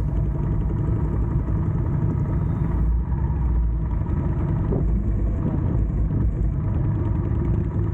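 Motorcycle engine running at a steady pace while riding, a low, even rumble.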